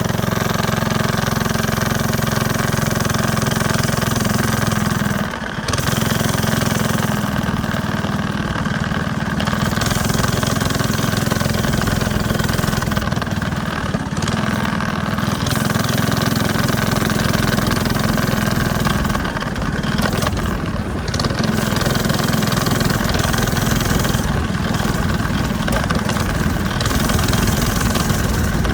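Go kart's single-cylinder 270cc Wiltec four-stroke engine running loud through a big aftermarket exhaust, steady with brief dips about five seconds in and again around twenty seconds.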